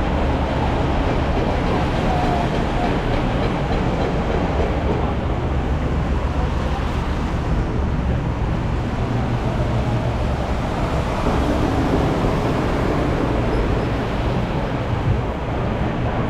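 Steady rumble of city traffic, a continuous noise without breaks.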